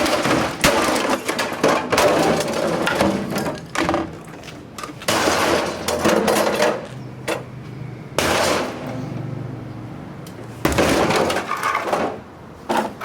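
Refrigerator being smashed apart: a run of hard hammer blows, each with cracking and clattering of breaking parts, several strong crashes spread through the few seconds.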